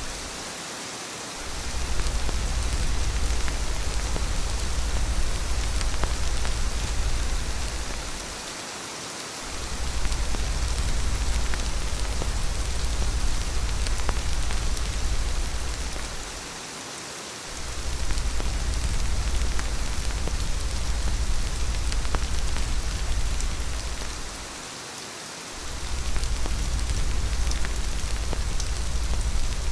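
Steady heavy rain, an even dense hiss of drops, over a deep low rumble that drops out for about a second roughly every eight seconds, each time lowering the overall loudness.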